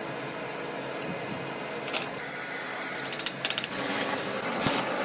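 Light metallic clinks and a quick rattling run of clicks, metal pieces being handled against a steady hum of shop equipment.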